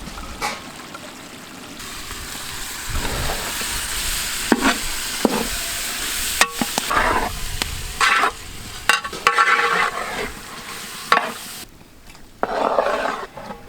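Chicken curry sizzling as it fries, stirred with repeated scrapes and knocks of the utensil against the pan.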